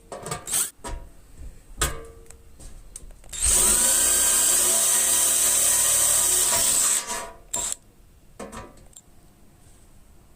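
A handheld electric power tool spins up and runs steadily for about three and a half seconds, starting about a third of the way in. A few sharp knocks and clatters come before and after it.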